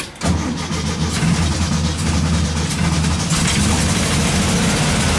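1967 VW bus's air-cooled flat-four engine catching about a quarter second in and running steadily on a cold start after sitting about a year, primed with fuel poured down the carburetor throat.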